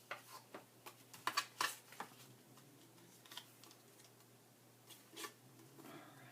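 Paper and craft tools being handled on a work table: a series of light clicks and taps, most of them in the first two seconds, with a few more later on.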